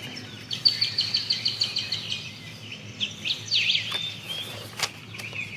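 Birdsong: a fast trill of about a dozen high chirps, then a short phrase of varied sweeping notes, over a low steady background hum.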